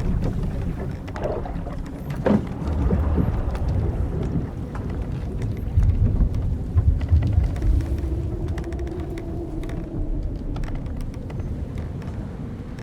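Old wooden sailing ship at sea: a heavy, steady rumble of wind and waves against the hull, with scattered knocks and creaks of the timbers and rigging. About seven seconds in, a long drawn-out creak rises and falls over several seconds.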